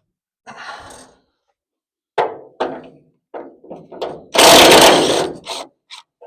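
Tools at work on a car door's hinge bolts: a string of metal clanks and knocks, then a loud noisy burst lasting about a second, the loudest thing here, about four seconds in.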